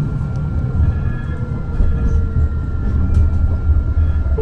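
Muni Metro light-rail train running, heard from on board: a steady low rumble of wheels on rail with a thin, steady high whine over it.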